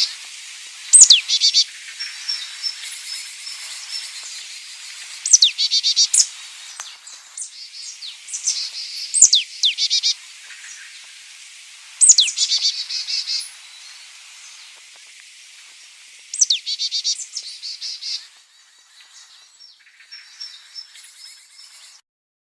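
A songbird repeating one song phrase, a sharp downward-sweeping whistle followed by a fast trill, about every three to four seconds, over a steady high insect hiss. The song stops near the end and the sound cuts off.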